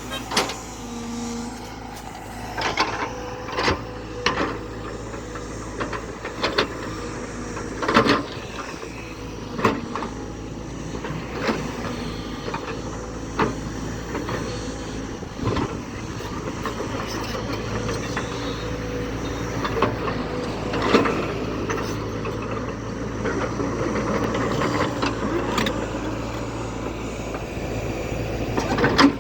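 JCB backhoe loader's diesel engine running steadily under work, with repeated sharp knocks and clanks, every second or two, from the machine's bucket and arms working earth.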